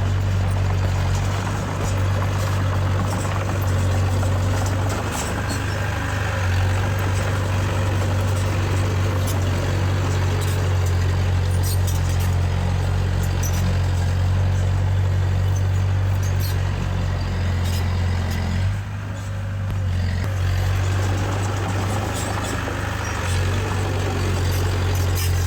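Heavy diesel engine of earthmoving machinery running steadily with a deep, constant hum, its sound dipping briefly about nineteen seconds in before picking up again.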